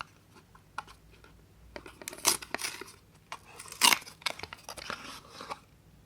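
Crackling, crunching and tearing of a bar of soap being unpacked and handled at close range, in irregular bursts, with the loudest crackles about two and four seconds in.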